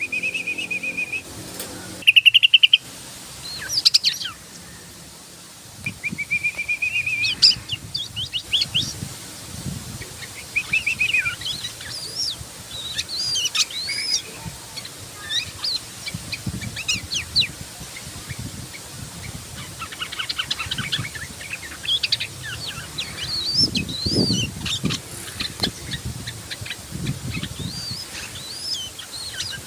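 Yellow-vented bulbul singing busily: quick, bubbly chirping phrases one after another, with a few louder calls near the start. A few dull low thuds come through, the clearest about three-quarters of the way in.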